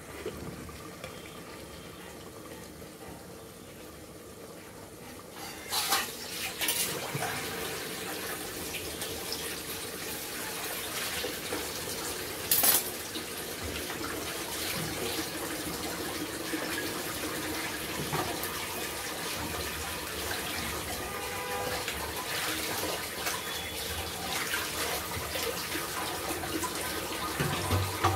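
Beef liver pieces sizzling as they are sautéed in oil and spice masala in an open pressure cooker, a steady frying hiss that grows louder about six seconds in. A few brief knocks, the sharpest about twelve and a half seconds in.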